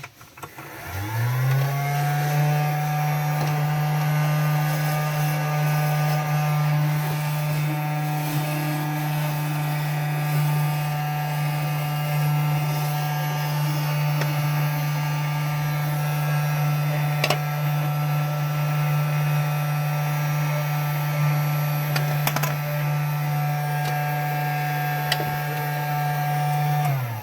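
Toy vacuum cleaner's small electric motor switched on, spinning up with a rising whine about a second in, then running with a steady buzzing hum and winding down when switched off at the end.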